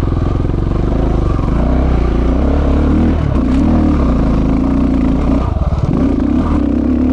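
KTM 690 Enduro's single-cylinder four-stroke engine pulling hard in second gear up a steep dirt hill. The throttle comes off briefly twice, near the middle and again about two seconds later.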